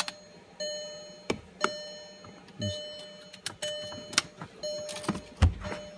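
Sharp plastic clicks and knocks of relays being pulled from and pushed into a 2008 Volkswagen Jetta's relay panel, with a loud thump about five and a half seconds in. A steady electronic tone comes and goes between the clicks.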